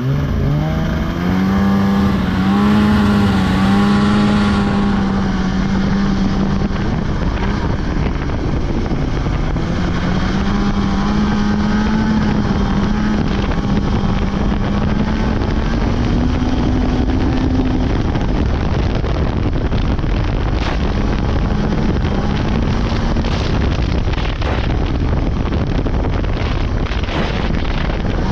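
Polaris 600 two-stroke snowmobile engine accelerating hard at the start, then running at high revs while riding. The engine tone fades in the second half under wind rushing on the microphone.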